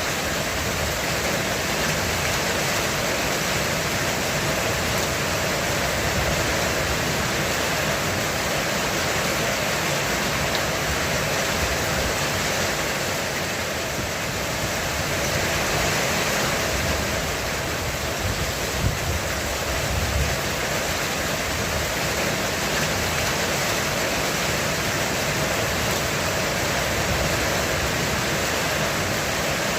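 Heavy rain falling on a roof, a steady, even hiss, with a low rumble of distant thunder swelling about halfway through.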